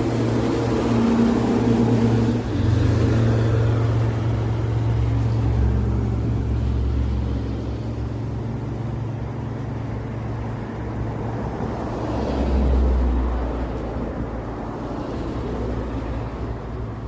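An engine running with a steady low hum, its pitch shifting a few times.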